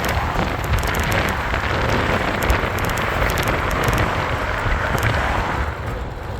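Wind rushing over the microphone and tyre noise from a moving e-bike: a steady rumbling hiss that eases off near the end.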